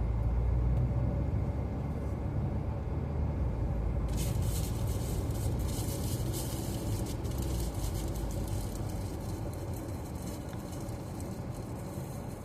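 Car cabin noise while driving: a steady low rumble of the car on the road. About four seconds in, a hiss starts suddenly and carries on almost to the end.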